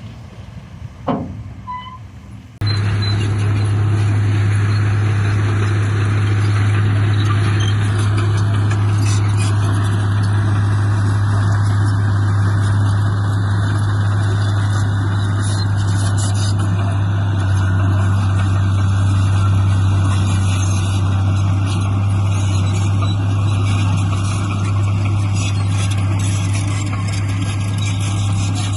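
Heavy diesel engine of construction machinery running steadily with a deep, even hum. It cuts in abruptly about two and a half seconds in, after a few brief, quieter sounds.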